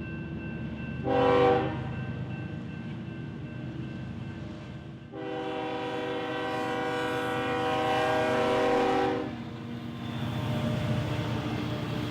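Diesel freight locomotive's air horn sounding a short blast about a second in, then a long blast from about five to nine seconds, over the steady drone of the locomotive engines.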